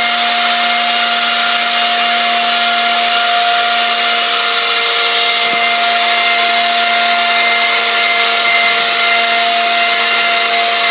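An electric blower motor running steadily: a loud rush of air over a constant motor hum.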